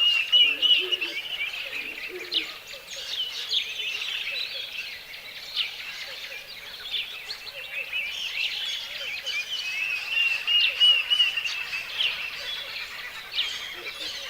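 Several birds chirping and singing together in a dense chorus of quick, high trills and chirps, with a few short low calls in the first two seconds.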